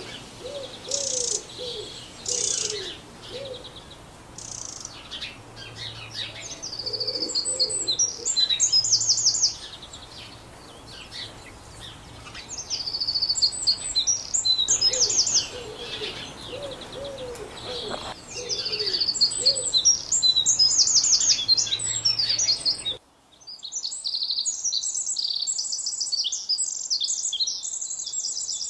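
Birds singing: bouts of rapid, high trilled phrases repeated every few seconds, with short lower calls underneath. About two-thirds of the way through, the background noise cuts out abruptly and only the high trills continue.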